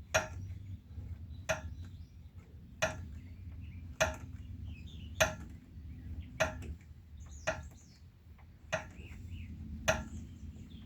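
Metal tool working the bent frame rail of a Geo: sharp metallic clicks at an even pace, about one every 1.2 seconds, over a low steady hum.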